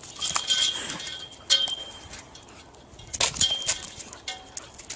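A series of sharp metallic clinks and knocks at irregular intervals, several ringing briefly, the loudest a bit over three seconds in.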